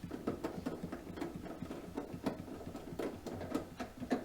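Fridge parts and wiring being handled and fitted by hand: irregular light clicks, taps and rustles, several a second.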